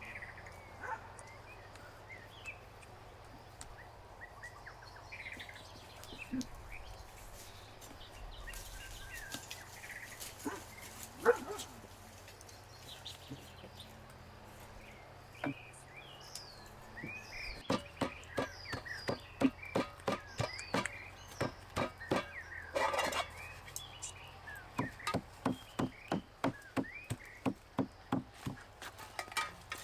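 Birds chirping outdoors. About halfway through, a long run of sharp, even strokes starts, two to three a second with short pauses: a knife chopping on a cutting board.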